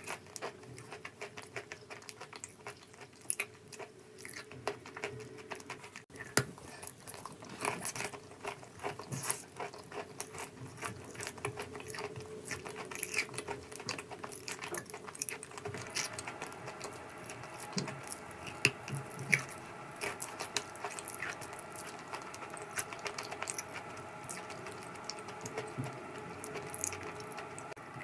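Close-up crunching and chewing of edible chalk or clay, with rapid irregular sharp crackles and crunches throughout.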